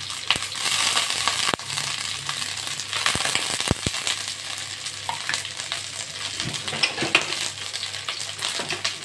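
Oil sizzling steadily in a steel kadai as onion, ginger, garlic, coriander leaves and peeled almonds fry for a masala base, with a few sharp clicks along the way.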